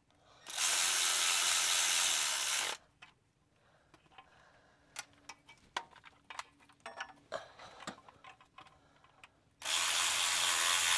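Power ratchet running down the bolts that hold a clutch slave cylinder, in two spells of about two seconds each. Loose clicks and knocks of tools and parts fall between them.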